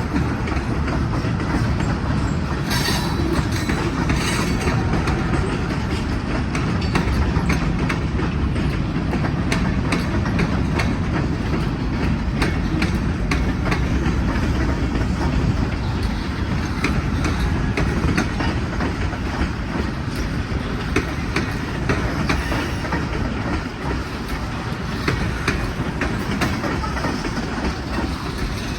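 BNSF manifest freight train rolling past at close range: a steady rumble of steel wheels on rail with a constant run of clicks and clacks as the wheels cross joints, and a brief metallic squeal or two about three to four seconds in.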